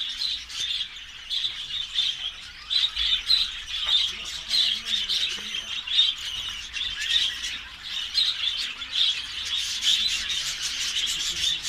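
Lovebirds chattering and squawking without pause, a dense run of quick high chirps.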